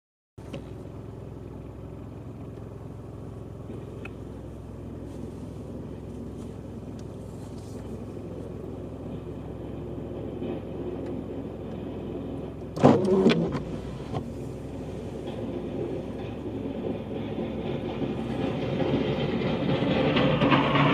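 Motor vehicle engine running steadily and slowly growing louder, with a sudden loud clatter about 13 seconds in and rising noise near the end.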